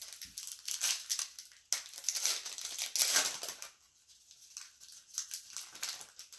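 A foil trading-card pack wrapper crinkling as it is torn open and handled, in dense crackly bursts that thin out in the second half.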